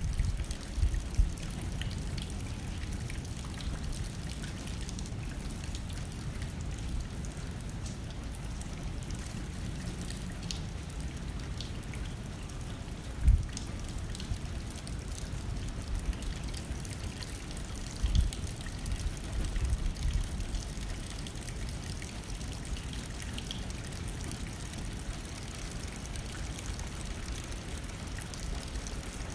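Steady rain pattering on a window pane with wind blowing, a low rumble under scattered drop ticks. Twice a brief low thump stands out.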